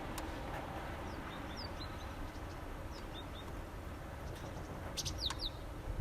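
Small songbirds chirping: short, high calls scattered throughout, with a quick cluster of falling notes about five seconds in, over a faint low background rumble.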